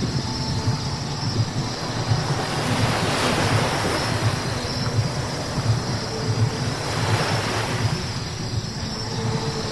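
Car driving on a wet road: a steady low road rumble with tyre hiss on the wet surface that swells twice, about three seconds in and again near the end.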